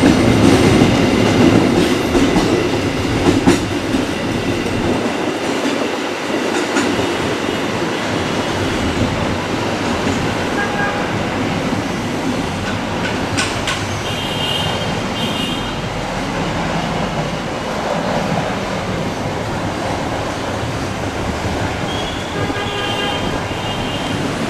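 A train running past at a station platform, with steady wheel rumble and clickety-clack over the rail joints. It is loudest in the first couple of seconds, then settles to a steady run. Brief high squeals come twice in the second half.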